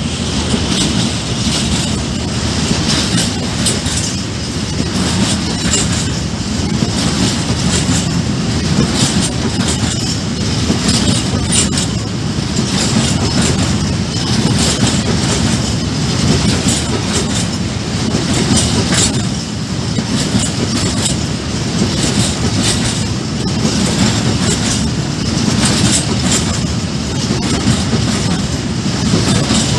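Freight train wagons rolling past on the rails, a steady loud rumble with the wheels clacking over rail joints.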